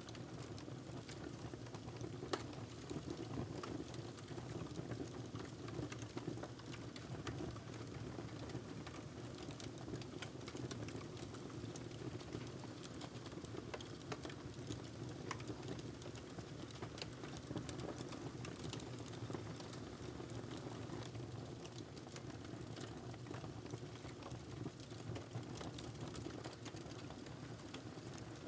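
Wood fire crackling in a fireplace: a steady low rumble of burning with scattered sharp pops and snaps, one louder pop a couple of seconds in.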